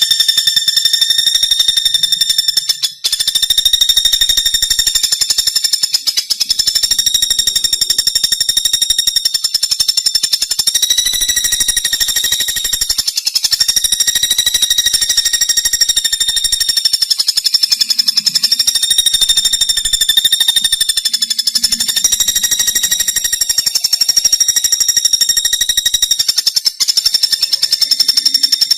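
Pelatuk bawang woodpecker giving a loud, long, very rapid rattling trill of high notes, broken by brief pauses about three seconds in, around thirteen seconds in, and near the end.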